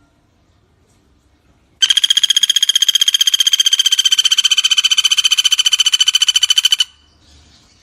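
Pelatuk bawang woodpecker giving a long, fast rattling trill at a steady high pitch, starting about two seconds in and cutting off sharply some five seconds later.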